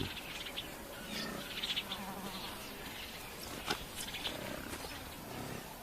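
Wild bush ambience of insects buzzing and trilling in rapid pulses, with a few short clicks.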